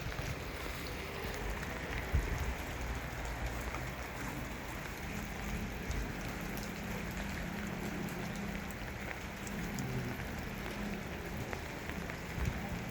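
Steady rain falling, an even hiss with scattered drops. A faint low hum joins in about five seconds in.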